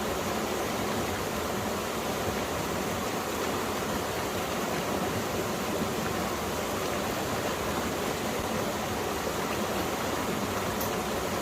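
Valley stream water flowing steadily.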